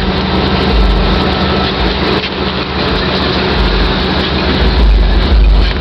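Loud, deep low rumble from a 1994 GMC truck, swelling and fading in uneven pulses over a steady hum.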